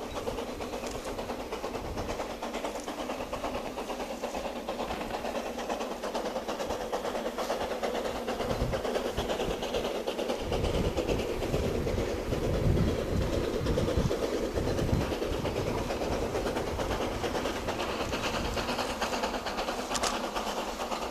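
C2 narrow-gauge steam locomotive and its train running along the track, a continuous rumbling clatter that grows louder toward the middle.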